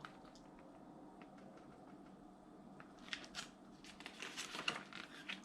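Faint rustling and light clicks of a picture book's paper pages being handled and turned, coming in from about three seconds in.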